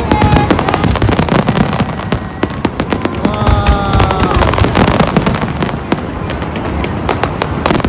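Fireworks going off in a dense, continuous barrage of rapid bangs and crackles, with a brief high tone about three and a half seconds in.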